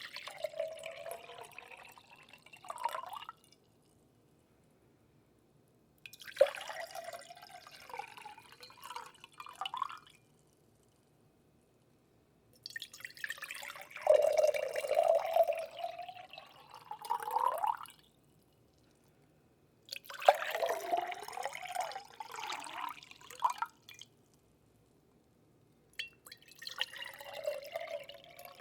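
Water dripping and moving in close to the microphone, in spells of three to five seconds with silent gaps between, each spell full of little gliding, bubbly tones.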